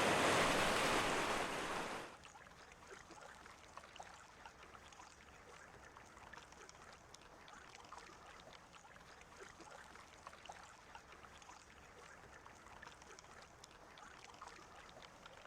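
Rushing sea water or surf, a steady hiss that drops away sharply about two seconds in. After that only a faint water ambience remains, with scattered small ticks and crackles.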